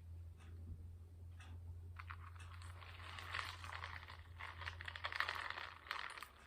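Milk being poured into a bowl of Cocoa Puffs cereal: a few small handling clicks, then a faint, grainy pouring and splashing from about two seconds in until near the end, over a steady low hum.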